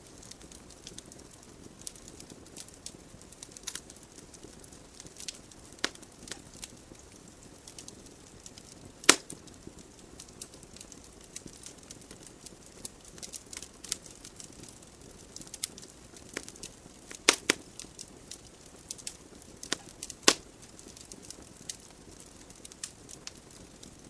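Wood fire burning in a fireplace: a soft steady hiss of flames with irregular sharp crackles and pops from the logs, a few louder snaps about nine, seventeen and twenty seconds in.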